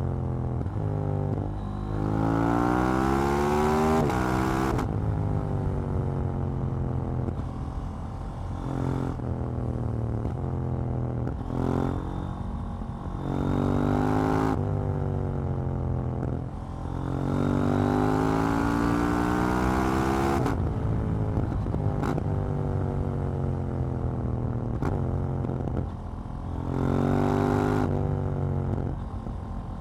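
KTM 790 Duke's parallel-twin engine and exhaust under riding: it revs up hard in several rising pulls, each cut by a quick drop in pitch at a gear change, then winds down as the throttle closes. A few sharp cracks sound along the way.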